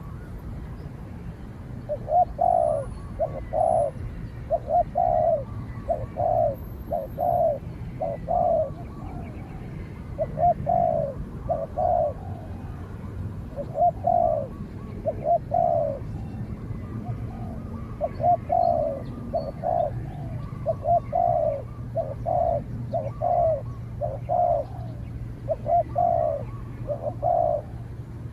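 Spotted dove cooing: a repeated series of short, low coo notes in phrases of several notes, starting about two seconds in and running on with brief pauses.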